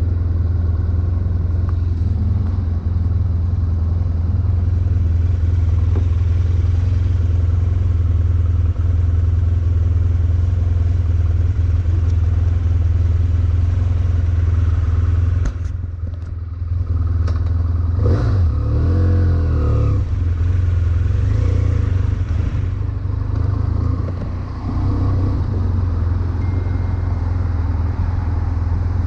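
2011 BMW F800ST's parallel-twin engine running on the move as a steady low drone. It eases off a little past halfway, then revs up and back down with a wavering pitch, and eases off briefly again later.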